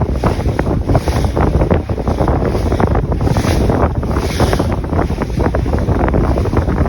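Strong wind buffeting the microphone over water rushing along the hull of a First 27 SE sailboat sailing upwind, with a few louder hissing surges of water about the middle.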